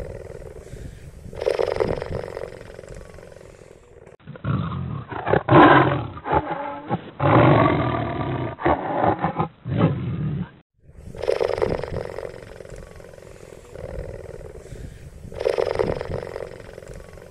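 Cheetah vocalising: calls about a second long repeat every few seconds. In the middle, a louder, duller-sounding stretch of harsher calls from a different recording lasts about six seconds and ends abruptly.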